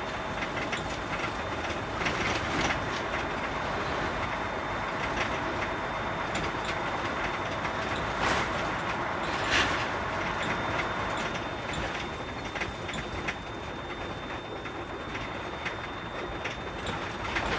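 Container truck on the move, heard from the cab: steady engine and road noise with frequent short rattles and clacks, and a faint steady high whine.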